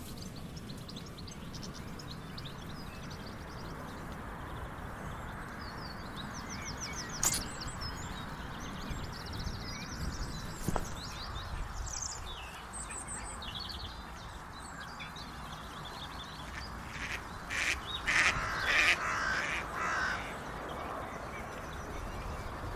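Wild birds chirping and trilling outdoors over a steady background hiss, with a cluster of louder, harsher calls or knocks about three quarters of the way through.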